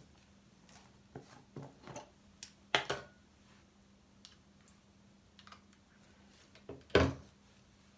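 Scattered light clicks and knocks of small objects being handled, with two louder knocks about three and seven seconds in, over a faint steady low hum.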